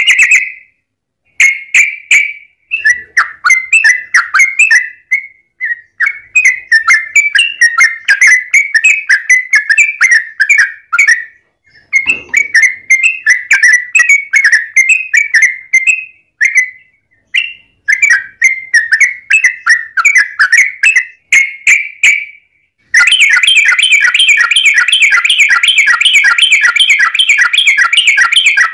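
Yellow-vented bulbul (trucukan) singing loudly: short bubbly, chattering phrases broken by brief pauses. About two-thirds of the way in, these give way to a long, unbroken rapid trill, the rolling 'ropel' song.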